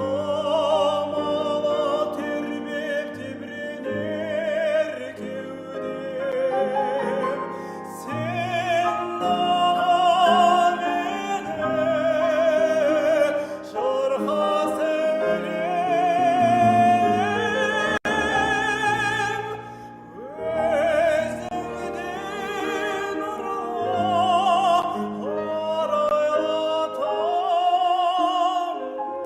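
Operatic solo voice singing a romance-style song with wide vibrato on held notes, accompanied by piano. The phrases break briefly about a third of the way in and again at the midpoint.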